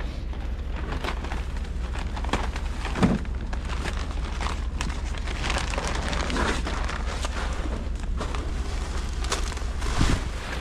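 Strong wind rumbling and buffeting on the microphone, with irregular crackles throughout and a louder thump about three seconds in and again near the end.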